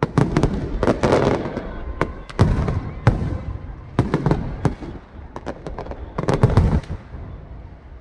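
New Year's aerial fireworks display: a rapid run of bangs and deeper booms with crackling between them, the heaviest booms about two and a half seconds in, at three seconds, and again around six and a half seconds.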